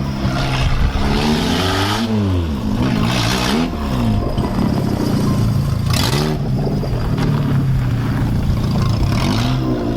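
Vehicle engine running and being revved, its pitch rising and falling again several times, about two, three, six and nine and a half seconds in.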